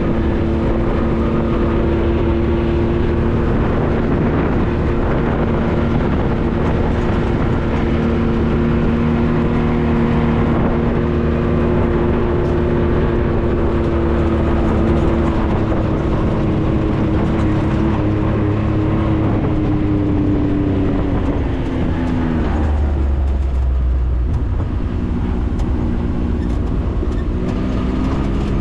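A 4x4's engine running steadily under way off-road. Its pitch drops about twenty seconds in as it slows, then picks back up near the end.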